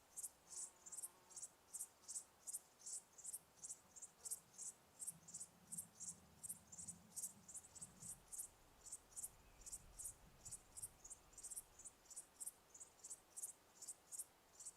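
Cricket chirping steadily, short high-pitched chirps repeated evenly at about three to four a second, with a faint low rumble in the middle.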